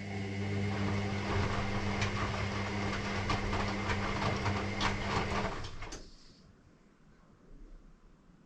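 Electrolux ecobubble washing machine taking in water: a steady electrical hum from the inlet valve over rushing, splashing water. It cuts off about six seconds in, leaving a quiet machine.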